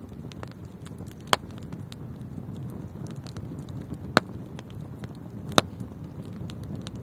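Wood fire burning in a fireplace: a steady low rumble of flames with faint crackling, broken by three sharp pops spread through it.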